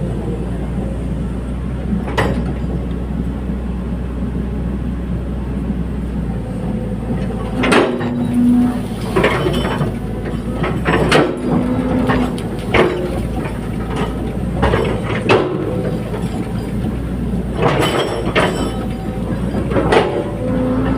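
Hydraulic excavator engine running steadily, with repeated metallic clanks and knocks starting about eight seconds in and a few brief whines.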